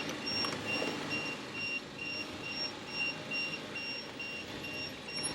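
Reversing beeper of a radio-controlled model construction vehicle: short high beeps, about three a second, over a low motor rumble.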